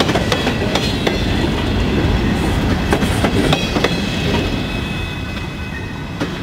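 Freight train cars rolling past on the rails: steady rumble with repeated clicks as the wheels cross rail joints. The clatter eases off somewhat toward the end as the last covered hopper car goes by.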